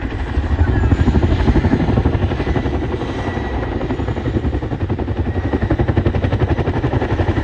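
Helicopter flying past, its rotor blades giving a fast, even chop.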